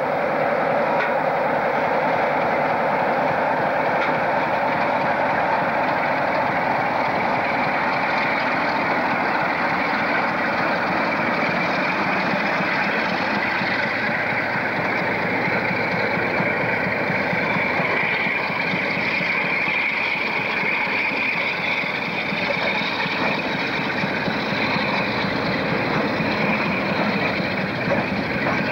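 British Rail diesel locomotive working a container freight train past at close range. The engine is heard first, then the continuous rumble and rattle of the container wagons rolling by on the rails, with a higher ringing wheel noise building in the second half.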